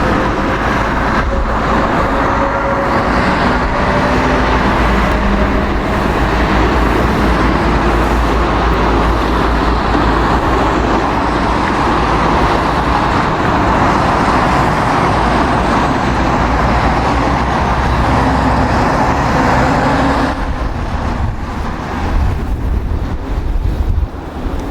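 Jet airliner engine noise mixed with strong wind buffeting the microphone. The engine noise falls away about twenty seconds in, leaving mostly wind rumble.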